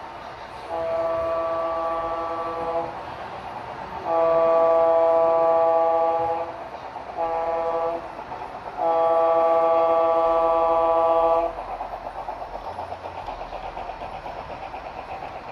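Train horn sounding a chord in four blasts, long, long, short, long: the grade-crossing signal. After it the train keeps running with a steady sound and a light regular pulse.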